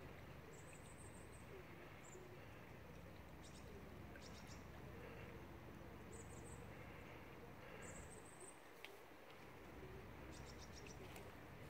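Faint, short, high-pitched bird chirps and quick trills every second or two, over the low steady hiss of a shallow creek.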